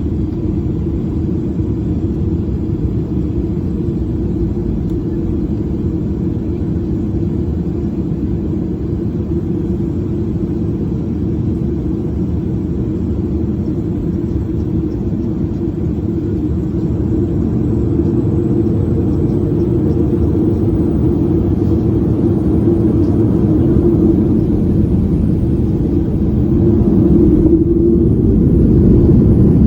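Boeing 737 cabin noise: a steady low rumble of the engines and airflow, growing louder about two-thirds of the way through and again near the end.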